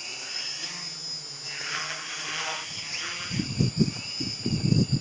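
Hexacopter's electric motors and propellers running with a steady high whine over a hiss of wind. From about three seconds in, strong gusts buffet the microphone in a run of low thumps.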